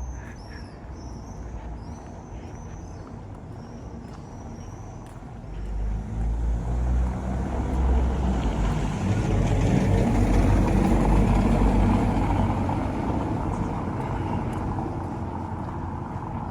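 A heavy vehicle passing close by on a city street: a low rumble builds from about six seconds in, is loudest around ten to twelve seconds, and fades toward the end. Birds chirp in the first few seconds.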